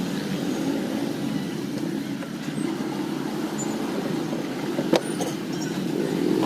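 Steady low rumbling background noise with a light knock about five seconds in.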